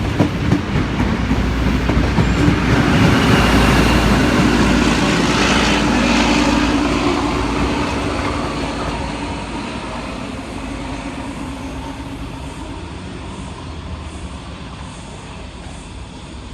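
Train running past on the track, its wheels clicking over rail joints at first, loudest a few seconds in, then fading steadily as it moves away.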